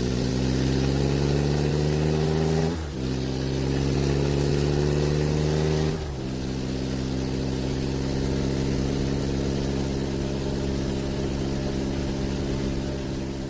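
Car engine accelerating through the gears: its pitch climbs steadily, drops sharply at an upshift about three seconds in and again about six seconds in, then climbs more slowly in the next gear and fades out near the end.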